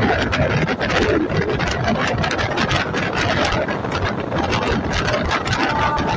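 Express passenger train running, heard from on board: a steady rumble of wheels on track.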